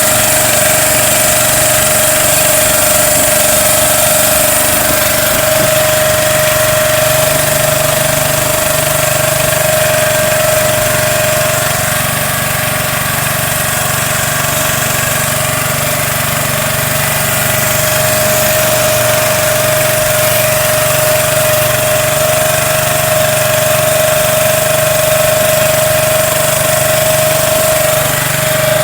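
An engine running steadily at an even speed, with a steady high hum over it.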